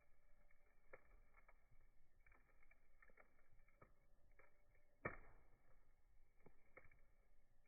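Campfire crackling softly: scattered small pops of burning wood, with one louder pop about five seconds in.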